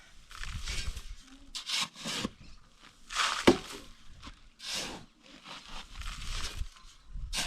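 Repeated rough scraping strokes at an irregular pace, about one a second, the loudest about halfway through.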